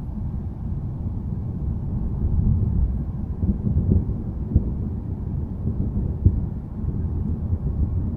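Low, rolling thunder rumble that swells a couple of seconds in and ebbs, with a few brief sharp crackles about midway.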